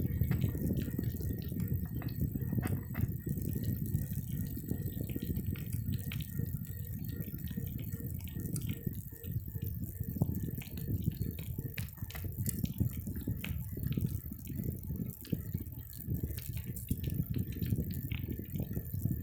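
Riding noise from a moving bicycle: a steady low rumble with many small rattles and clicks as the bike runs over the road.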